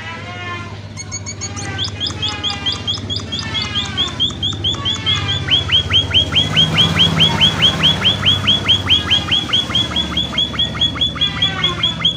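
Emprit (munia) birds chirping: a fast, even run of short high chirps, about five a second, gets louder a few seconds in, with other chirps overlapping it before that.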